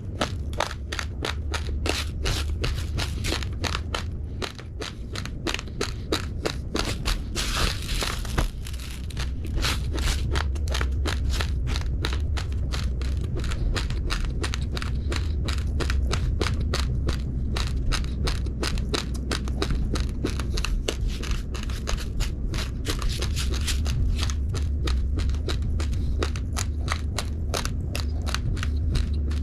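Raw, uncooked rice grains being chewed close to the microphone: rapid hard crunching, several crunches a second, over a steady low hum.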